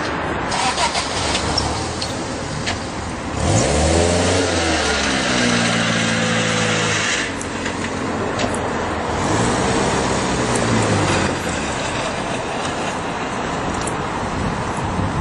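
A car engine revs up and eases off twice, once about four seconds in and more faintly near ten seconds, over a steady background hiss.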